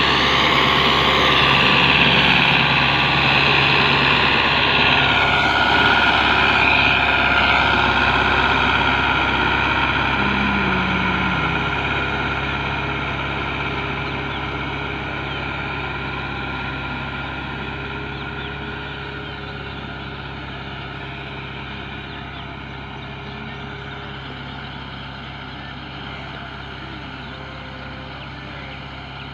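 Tractor engine running steadily, growing gradually fainter through most of the stretch.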